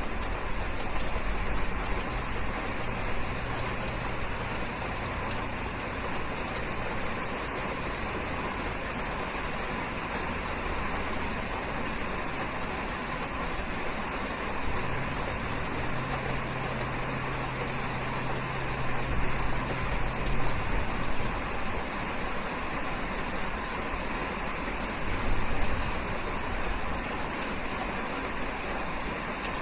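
Steady rain falling, an even hiss, with a low rumble underneath that swells and fades.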